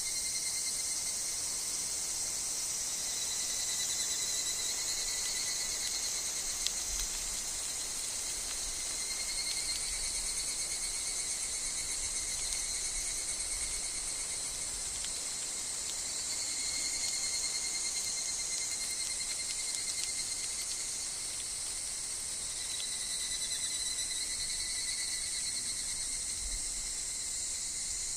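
Dense woodland insect chorus of cicadas and crickets: a steady, high-pitched shrill, with fainter tones underneath that swell and fade every few seconds, including the calls of higurashi (evening cicadas).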